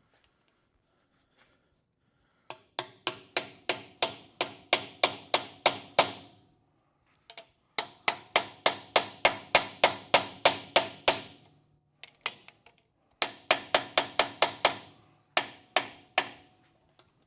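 Hammer blows on a bearing driver, seating a new Koyo axle bearing into a GM 12-bolt rear axle housing: three runs of rapid metal-on-metal strikes, about four a second, each ringing.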